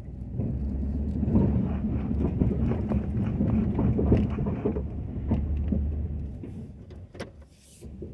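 Ford F-250 pickup with a Western snow plow running under load, loud for about six seconds and then dying away. Many small crackles and clicks run through the middle.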